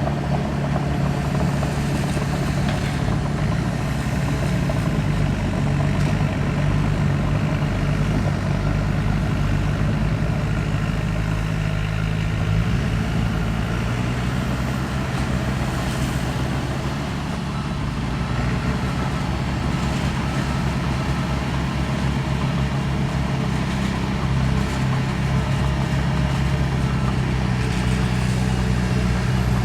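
Heavy diesel engine of earthmoving equipment running steadily under work, with a slight drop in level a little past the middle.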